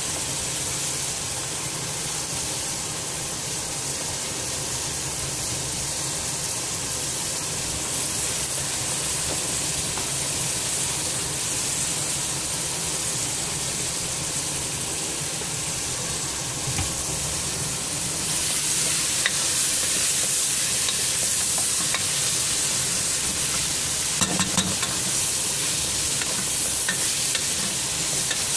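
Spinach and potatoes sizzling in a cooking pot on the stove. The hiss grows louder about two-thirds of the way through, and a wooden spoon stirring the pot gives a few sharp clicks near the end.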